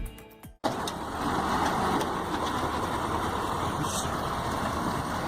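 Music fades out and cuts off about half a second in, giving way to a heavy vehicle's engine running steadily.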